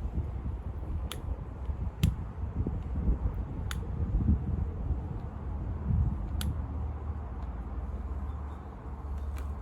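Wood fire crackling, with about five sharp pops spread irregularly over a low steady rumble.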